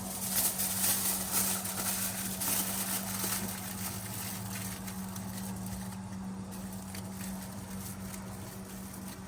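Thin aluminum foil crinkling and crackling as it is wrapped around engine parts, busiest in the first few seconds, over a steady low hum.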